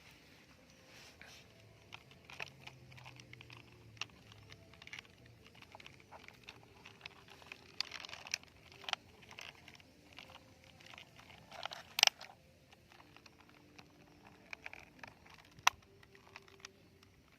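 Plastic toys being handled: scattered small clicks, knocks and scrapes at an uneven pace, with a sharp clack about twelve seconds in and another near the end.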